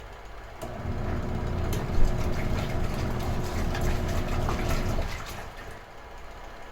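Small retro-style washing machine's wash motor running with a steady hum and water churning, stopping about five seconds in and starting again just after, in the run-and-pause rhythm of a wash cycle. There is a sharp click about two seconds in.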